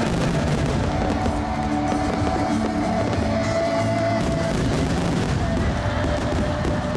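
Barrage of 10-inch (shakudama) aerial firework shells bursting and crackling in quick succession, mixed with music for the display.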